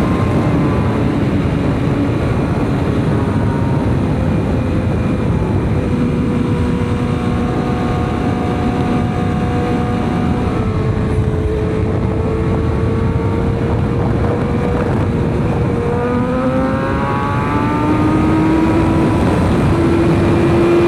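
BMW S1000RR inline-four engine running under way over a heavy rushing noise, its note holding steady at several pitches in turn and then climbing as the bike accelerates near the end.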